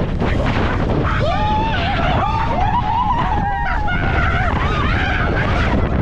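Heavy wind buffeting the microphone on a moving boat, with a person's high, wavering scream from about a second in until shortly before the end.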